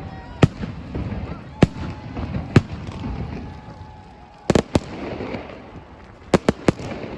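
Fireworks display going off: a string of sharp bangs at irregular intervals, some in quick doubles and triples, over a low rumble of crowd noise.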